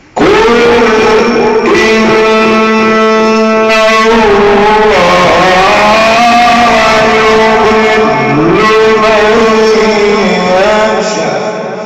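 A male Quran reciter's voice in melodic tajweed recitation, holding one long ornamented note in a single breath with slow bends in pitch around the middle. It starts abruptly and fades out near the end.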